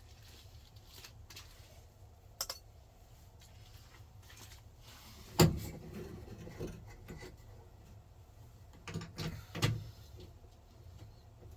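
Clicks and clunks of metal parts being worked in a Chevrolet square-body pickup's door latch and handle mechanism: a sharp click a couple of seconds in, one loud clunk about halfway, and a few quicker knocks near the end.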